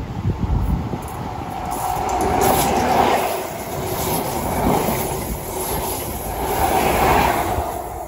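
Passenger train passing close by at speed: a rush of wheel and track noise that builds up and swells several times as the carriages go past.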